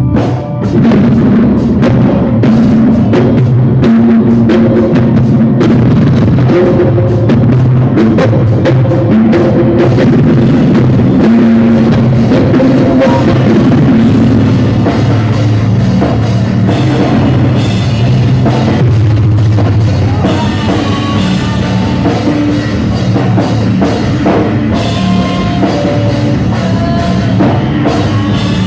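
Loud rock band playing, with a driving drum kit, bass and guitar; a rough, heavily distorted recording. The dense drumming thins out about a third of the way in, and higher guitar lines come in over the low notes in the second half.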